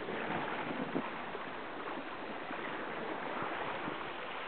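Water rushing and lapping along the hull of a Catalina 22 sailboat moving slowly through calm water, a steady wash.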